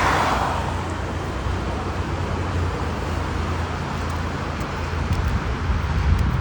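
Street traffic: a passing car's tyre hiss on the wet road fades away in the first second, leaving a steady low rumble of traffic.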